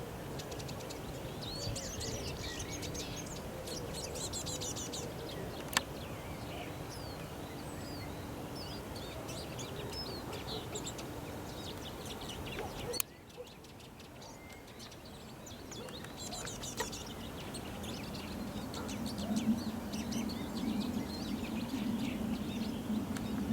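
Eurasian siskin twittering in short high chirps and trills over steady background noise. There is one sharp click a little after five seconds, and the background drops suddenly about halfway through. A low hum builds through the second half and becomes the loudest sound near the end.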